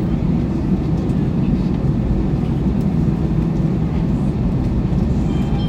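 Airbus A321 engine and airflow noise heard inside the passenger cabin: a steady low rumble that does not rise or fall.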